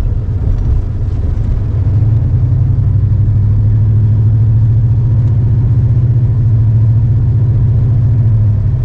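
Car engine and road noise heard from inside the cabin while driving: a steady low drone that grows stronger about two seconds in and holds steady.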